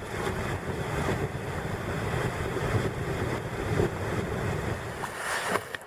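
Wind buffeting the microphone over water washing around a sea kayak, with a brief louder hiss about five seconds in.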